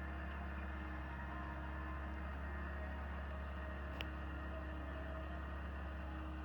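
An engine running with a steady low hum, and one sharp click about four seconds in.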